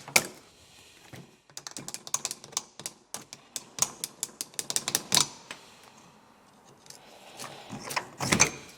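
Quick, irregular light metallic clicks and taps as a brake pad retaining clip and pins are worked out of a corroded brake caliper, with a few louder knocks near the end.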